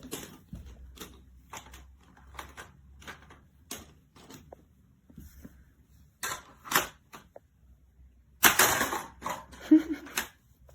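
Hard plastic clicking and clattering of a toy monster-truck stunt playset being handled: a run of sharp clicks about every half second, then two louder clatters in the second half.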